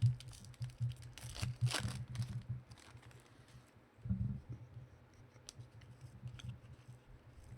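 Trading card pack wrapper being torn open, with crinkles and small clicks from handling the cards.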